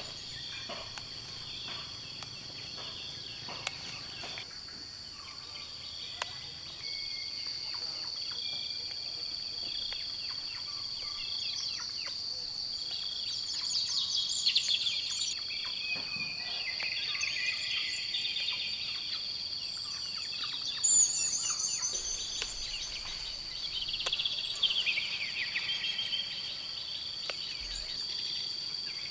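Insects trilling in a steady high drone, with birds chirping on and off, more often through the second half.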